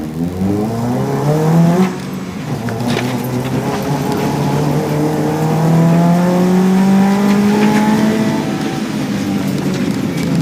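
Rally Subaru Impreza's naturally aspirated 2.5-litre flat-four accelerating hard from a standing start, heard from inside the car: the revs climb quickly, drop with a gear change about two seconds in, then climb more slowly through the next gear before easing off near the end.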